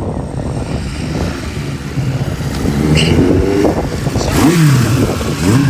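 Big Rickman Kawasaki motorcycle engine running, blipped several times so that its pitch rises and falls in the second half.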